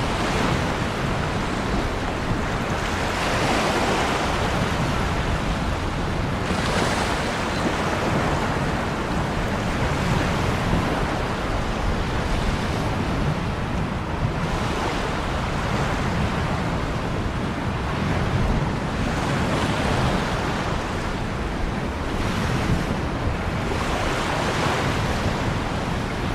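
Ocean waves breaking and washing on a shore, a steady surf hiss that swells every few seconds with each wave, with some wind.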